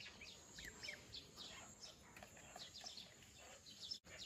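Faint chirping of small birds: many short, high chirps, several falling in pitch, scattered irregularly.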